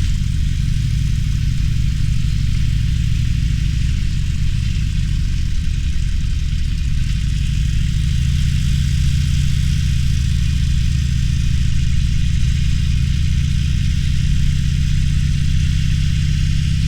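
Harley-Davidson Roadster's V-twin engine running steadily while riding, its low note shifting slightly about halfway through.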